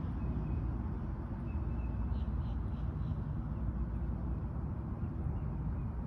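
Woodland ambience: a steady low rumble with faint short bird chirps repeating now and then.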